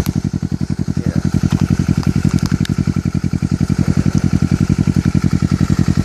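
2013 Kawasaki Ninja 650's parallel-twin engine idling through a Two Brothers full-system aluminium exhaust: a loud, steady, even pulsing with no revving.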